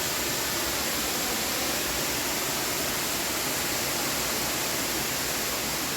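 Steady, even rush of a waterfall: water pouring down the cascades as a constant hiss.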